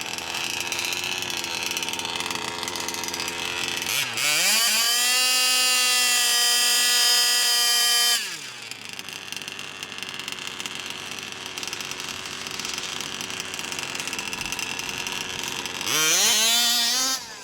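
Radio-controlled car motor running, then about four seconds in winding up quickly to a steady high-pitched whine held for about four seconds before dropping away. A second quick wind-up comes near the end.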